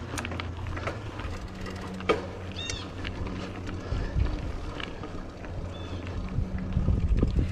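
Mountain bike rolling over a dirt trail: a steady low rumble of tyres with scattered clicks and rattles from the bike, and a sharp knock about two seconds in.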